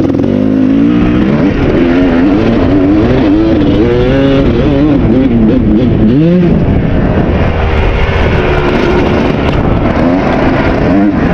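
2001 Kawasaki KX250 two-stroke dirt bike engine revving up and down while being ridden, its pitch rising and falling over and over, with a sharp drop and climb about six seconds in.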